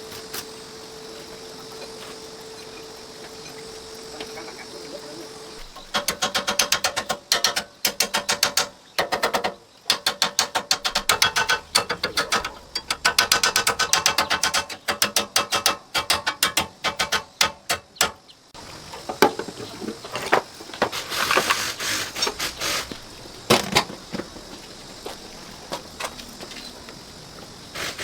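Rapid, dense mechanical clicking in runs, typical of a hand tool being worked on metal parts. It starts about six seconds in after a faint steady hum and gives way to scattered knocks and clatter in the last third.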